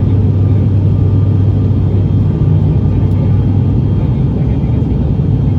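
Steady drone of an ATR 72 turboprop's engines and propellers heard inside the cabin: a constant low hum with faint steady higher tones above it.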